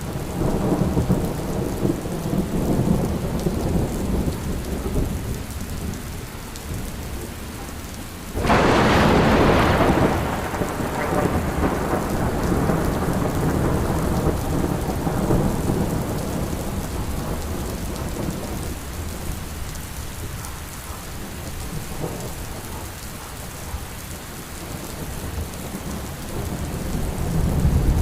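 Thunderstorm: steady rain with thunder rumbling. About a third of the way in a sudden loud thunderclap breaks, then rumbles away over several seconds, and the rumbling builds again near the end.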